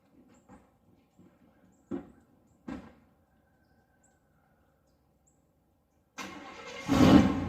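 A truck engine being started: the starter cranks for under a second, the engine catches with a loud burst about seven seconds in, and it settles into a steady idle. Two faint knocks come a few seconds before it.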